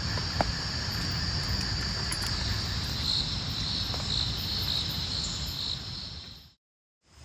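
Steady rain-forest ambience: a wash of rain with an insect chorus of crickets trilling high over it and a run of short chirps in the middle. The sound fades out to silence near the end.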